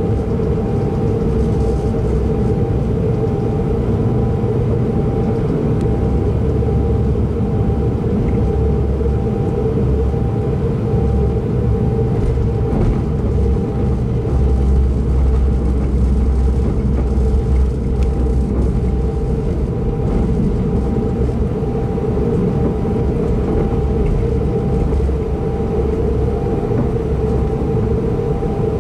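Pendolino tilting train running at speed, heard from inside a passenger car: a steady low rumble with a constant hum and a thin higher tone above it.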